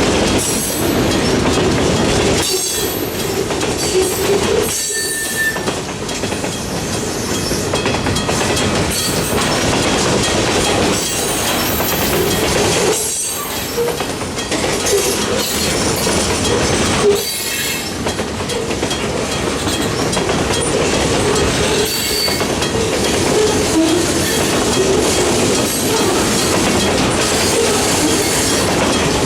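A long freight train's cars rolling past at close range: a steady, loud rumble of steel wheels on the rails with clatter and brief, scattered wheel squeals.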